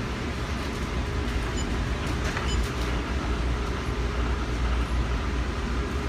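Steady low rumble and running noise of a moving passenger train heard from inside the car, with a few faint clicks.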